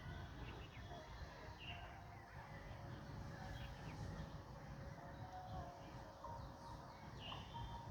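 Faint bird chirps, a handful of short calls scattered through, over a low steady background rumble.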